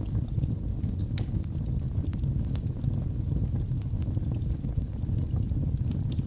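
Wood fire burning in a fireplace: a steady low rumble of the flames with scattered, irregular sharp crackles and pops from the burning wood.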